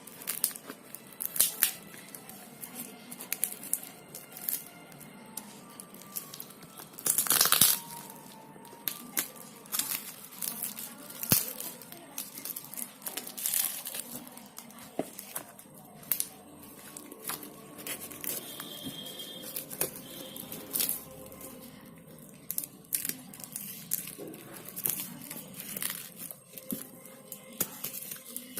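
Packaging being opened by hand: crinkling and tearing of the box wrapping, with scattered clicks and rustles, and one longer loud tear about seven seconds in.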